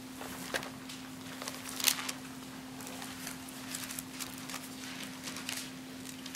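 Bible pages being turned: a scatter of faint paper rustles and soft clicks, with a sharper rustle about two seconds in, over a steady low hum.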